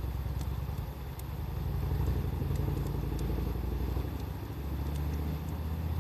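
Wood fire crackling with scattered sharp pops, over a louder low rumble that shifts in pitch about two-thirds of the way through.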